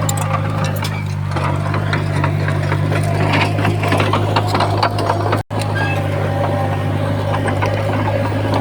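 Komatsu bulldozer's diesel engine running steadily under a stream of clanks and knocks from its tracks and the rock and soil it is pushing. The sound cuts out for a moment about five and a half seconds in.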